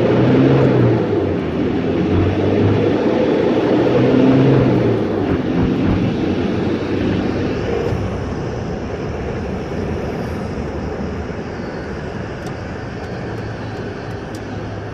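A vehicle engine running with steady rumbling noise, loudest in the first few seconds and then slowly fading.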